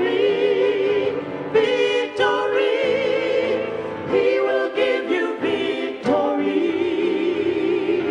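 Sacred vocal music sung with a marked vibrato, held notes broken into phrases, with accompaniment underneath.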